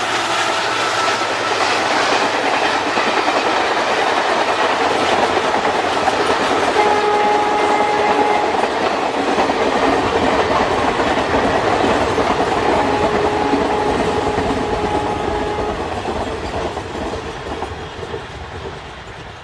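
An express train rolls past, its coaches clattering and rumbling over the rails. The WDG-4 (EMD GT46MAC) diesel locomotive's horn sounds twice: a short blast about seven seconds in and a longer one of about three seconds near the thirteen-second mark. The rumble fades away near the end.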